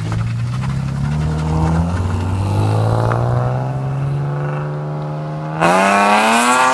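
BMW E36 straight-six engine pulling under load, its pitch climbing slowly. About five and a half seconds in, it suddenly gets louder and revs up quickly as the car is kicked into a drift.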